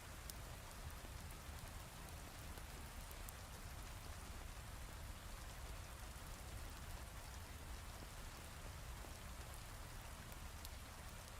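Heavy rain falling steadily, with a low rumble underneath and scattered faint ticks of single drops.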